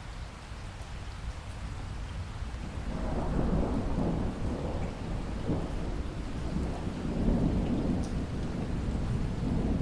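Steady rain, joined about three seconds in by a long, low roll of thunder that grows louder and rumbles on to the end.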